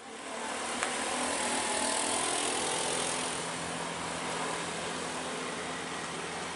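Motor vehicle engine running steadily, a faint hum under an even rushing noise, with one small click about a second in.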